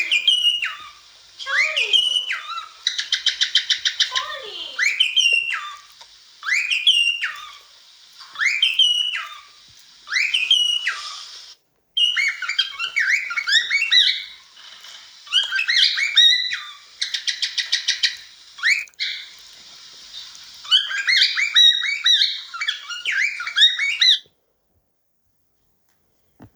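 Cockatiel singing a whistled courtship song: a string of swooping whistled notes about one a second, broken twice by a fast buzzing trill, then a run of quicker warbled notes. The sound cuts off abruptly about two seconds before the end.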